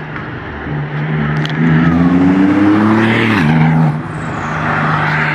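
A car engine accelerating, its pitch rising for about two seconds, then dropping sharply about three and a half seconds in and running on steadily.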